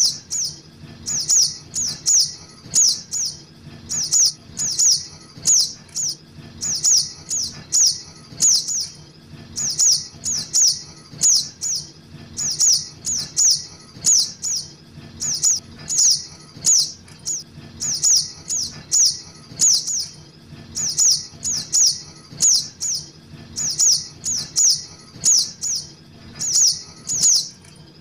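Juvenile sogok ontong (little spiderhunter) calling: sharp, high chips, each sliding down in pitch, given in quick clusters of two to four and repeated about every second without a break.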